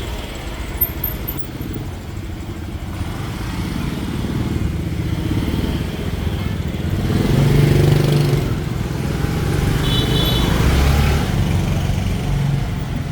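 Busy street traffic of motorbikes and scooters, engines running and passing close, loudest about halfway through. A short high beep comes about ten seconds in.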